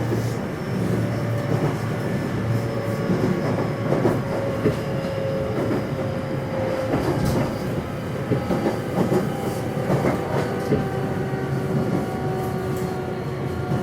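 Running sound inside a JR West 227 series motor car (KuMoHa 227-7): the whine of its Hitachi IGBT VVVF inverter and traction motors falls slowly in pitch as the train slows. Wheels rumble on the rails underneath, with scattered clicks over rail joints.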